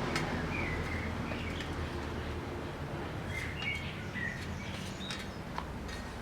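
Small birds chirping in short calls scattered through the moment, over a steady low background rumble, with a few light sharp clicks.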